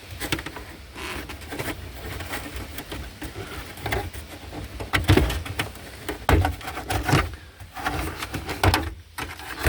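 Irregular knocks, clicks and rattles of car interior trim around the gear lever being pulled and worked loose by hand inside the car.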